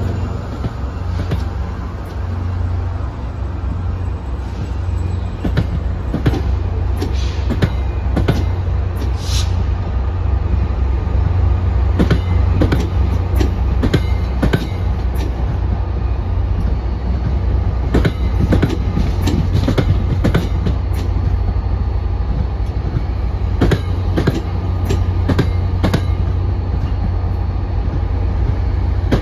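Metro-North Comet V passenger coaches rolling past at low speed, their wheels clicking in irregular clusters over rail joints over a steady low rumble. A brief high squeal about nine seconds in.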